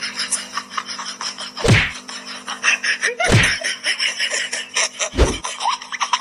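Three heavy thumps about a second and a half apart, over a steady hum and fast, dense clicking.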